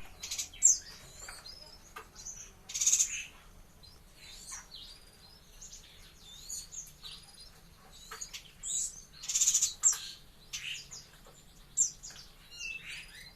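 Yuhina calling and chirping: a run of short, high, twittering notes broken by a few louder, harsh, buzzy calls.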